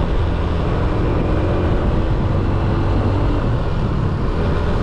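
Motorbike riding noise: steady wind rush on the microphone over the small motorbike's running engine, loud and unbroken.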